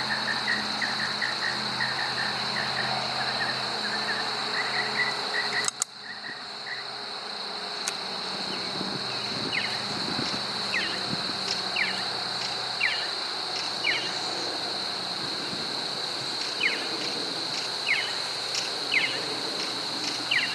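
A steady high-pitched insect trill, cricket-like, runs throughout, with short chirps repeating over it. Up to about six seconds in there is also a low steady hum; after a brief drop in level about six seconds in, the hum is gone.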